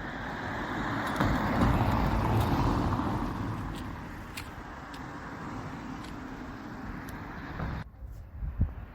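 Tesla Model 3 Long Range AWD under way, a steady road and tyre rush that swells over the first few seconds and then eases, with a handful of sharp clicks: the clicking it makes when the drive load shifts. The rush cuts off suddenly near the end.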